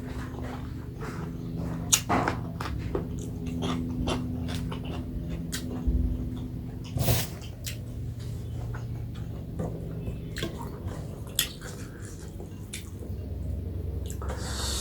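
Close-miked eating sounds: wet chewing and lip smacks, heard as a string of small clicks, with a few louder ones about two, six and seven seconds in, over a steady low hum.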